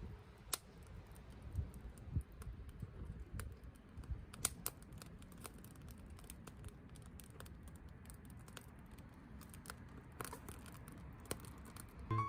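Wood campfire crackling, with irregular sharp pops and snaps over a low steady hiss of the fire.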